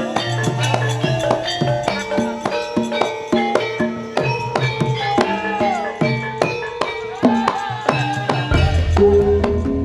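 Javanese traditional dance music: hand drums and struck pitched percussion playing a fast, busy pattern, with a deeper low note coming in near the end.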